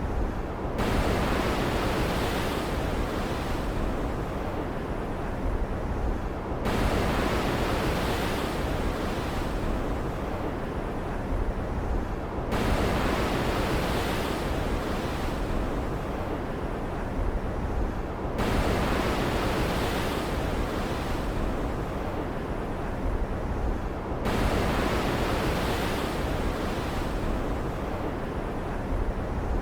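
Stormy sea ambience: a steady rush of ocean waves and rain. The hiss swells brighter abruptly about every six seconds and then settles again.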